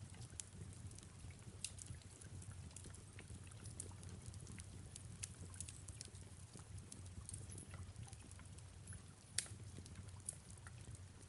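Faint fireplace crackling: scattered sharp pops and snaps, one louder pop near the end, over a steady low rumble with soft rain.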